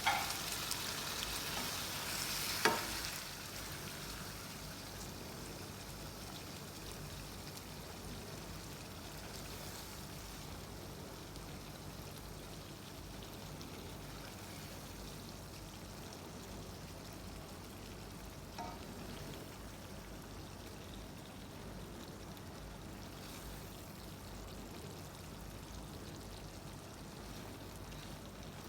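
Food frying in hot oil in a pot, a steady sizzle that is louder for the first few seconds and then settles. A few sharp knocks sound over it, one about three seconds in and another near the middle.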